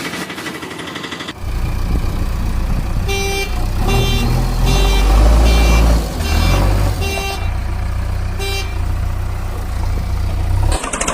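A deep, steady vehicle engine rumble starts about a second and a half in and cuts off suddenly near the end. Over it, a vehicle horn gives a run of short honks from about three seconds in, with one more a little later.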